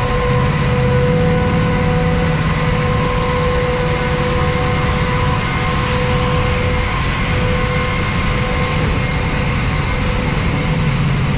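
A vehicle's engine and road noise, heard from inside the cab: a steady low rumble with a constant high whine over it.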